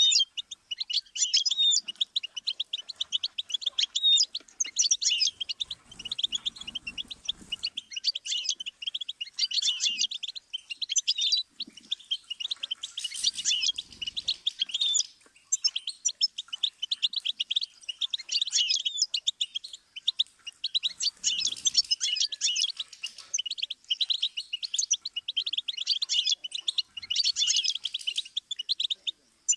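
Goldfinch song: long runs of rapid, high-pitched twittering and trills, phrase after phrase with only brief pauses between them.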